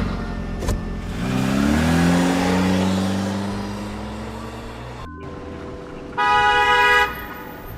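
A motor vehicle's engine rises in pitch and then holds and fades, and after a short break a car horn gives one toot lasting under a second.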